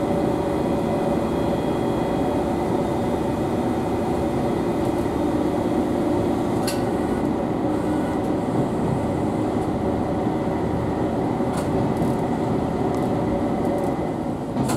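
Diesel railcar running steadily, heard from inside the driver's cab as the train pulls away from a station. Two short sharp clicks come about seven and eleven and a half seconds in.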